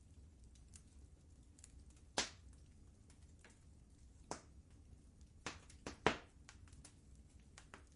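Wood fire crackling in a fireplace: scattered faint pops and snaps, the sharpest about two seconds in and just after six seconds, over a low steady rumble.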